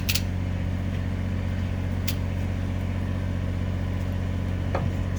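Steady low mechanical hum, with a few light clicks and knocks: one at the start, one about two seconds in and one near the end.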